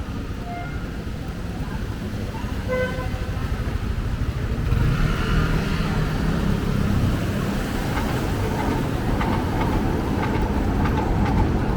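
Street traffic, vehicles running and passing, growing louder about five seconds in, with a couple of short beeps in the first three seconds.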